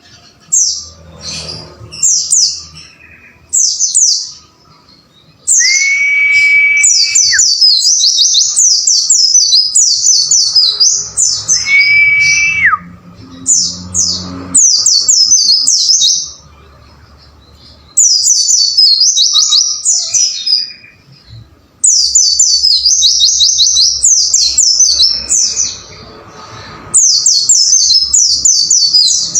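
White-eye (pleci) song: loud bursts of rapid, high, downward-sweeping chirps lasting a few seconds each, with short pauses between them. Twice a long, steady, lower whistle is held for a second or two.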